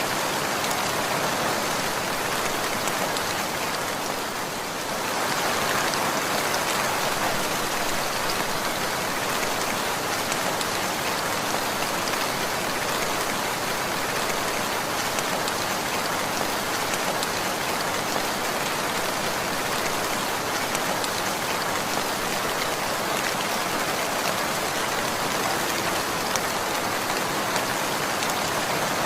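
Steady rain falling, an even, dense patter of raindrops with a brief slight dip in level about four seconds in.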